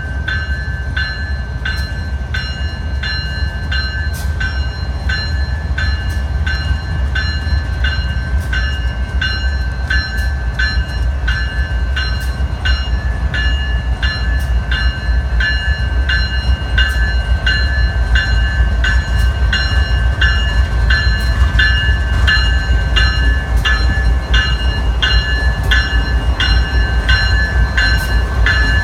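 A bell ringing about twice a second over the low, steady rumble of a GE Evolution Series diesel locomotive leading a freight train, the whole growing slowly louder as the train gets under way.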